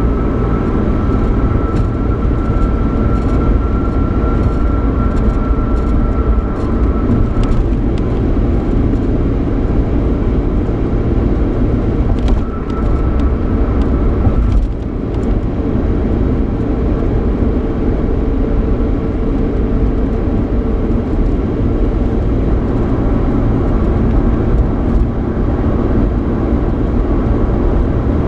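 Steady road noise and engine hum heard from inside the cabin of a 3.8 L V6 Ford Mustang on the move. A faint high whine runs for the first several seconds and returns briefly about halfway through.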